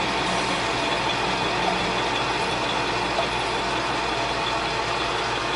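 Metal lathe running steadily, its motor and gearing giving a constant hum with a steady whine.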